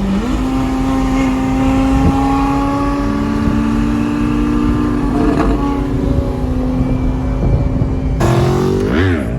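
Sports car engines droning steadily at cruising speed, their pitch creeping up slowly, with a second engine note joining about three seconds in. Near the end an engine revs up sharply and drops back.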